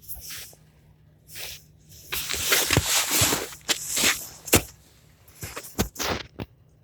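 Footsteps crunching in snow: an irregular run of crunches and squeaks that stops near the end.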